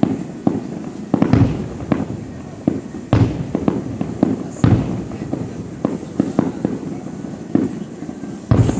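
Aerial fireworks shells bursting in a rapid, irregular series of bangs, each trailing off in an echo, with a few heavier booms standing out among the smaller cracks.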